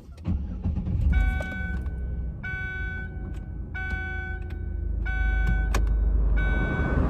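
A car engine starting and settling into a low idle, while a pitched warning chime sounds five times at about one-and-a-quarter-second intervals, with a couple of clicks. Near the end the dashboard ventilation fan comes on with a rising hiss of air.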